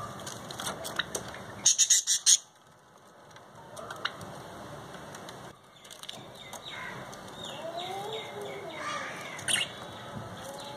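Pet lovebirds chirping with short curved calls, with a brief burst of sharp clattering about two seconds in.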